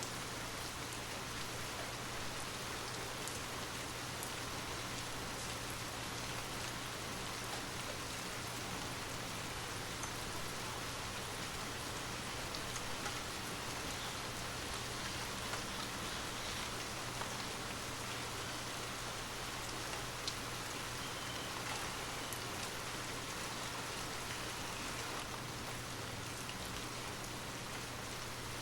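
Steady rain falling: an even hiss with scattered faint drop ticks, over a constant low hum.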